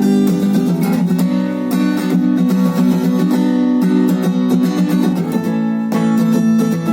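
Acoustic guitar being strummed, chords ringing on with frequent strokes and no voice.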